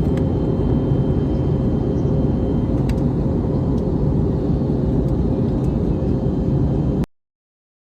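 Airplane cabin noise in flight: a steady drone of engines and rushing air, heaviest in the low end, with a faint steady hum on top. It cuts off suddenly about seven seconds in.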